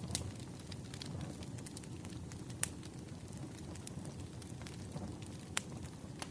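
Wood fire burning, a steady low rumble with irregular crackles and pops, a few sharper pops standing out.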